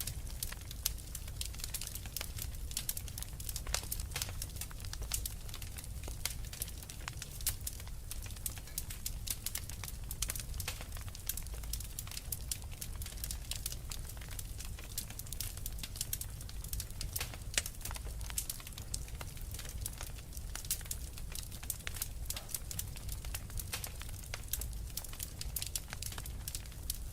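Wood fire burning in a fireplace, with constant fast, irregular crackling and popping over a low rumble of the flames.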